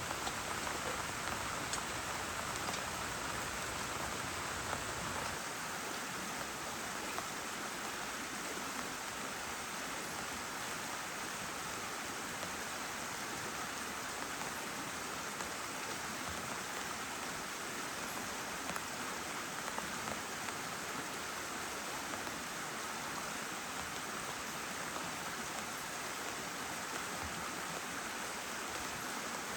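Heavy rain falling steadily, an even hiss of drops. A low rumble under the rain drops away about five seconds in.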